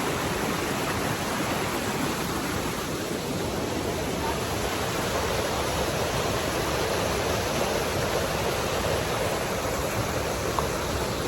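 Steady rush of falling and flowing water from a mountain stream and waterfall, an even roar with no break.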